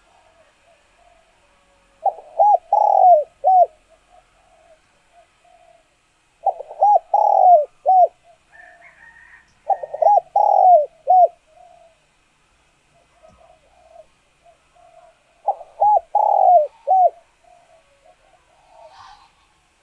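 Spotted dove cooing: four phrases of three or four short coos each, a few seconds apart, the territorial call of a tame caller dove used to draw wild doves. Faint chirps of other small birds in between.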